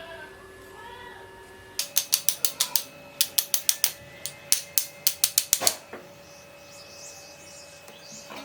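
A quick run of sharp, irregular clicks, about four or five a second, lasting about four seconds, followed by faint bird chirps.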